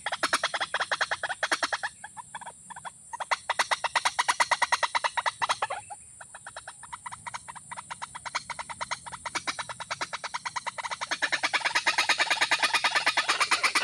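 A bird calling in fast runs of short clicking notes, about ten a second, fading twice and then growing louder near the end.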